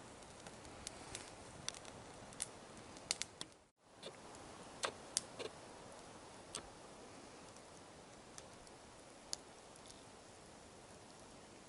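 Wood campfire crackling: scattered sharp pops over a steady low hiss, with a momentary break in the sound about four seconds in.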